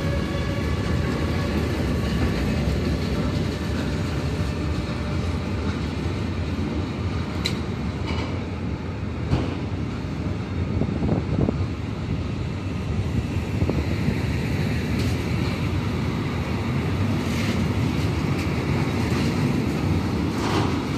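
Freight train of flat wagons carrying tank containers rolling past: a steady rumble of wheels on rail, with a few sharp clicks from the wheels. A thin whine fades out in the first few seconds.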